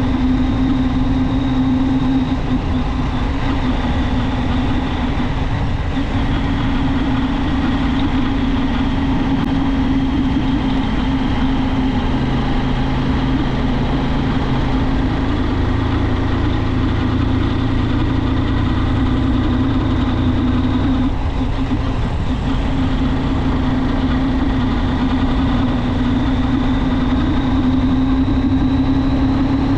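Junak M12 motorcycle engine running steadily while riding, easing off briefly about two-thirds of the way through before picking up again.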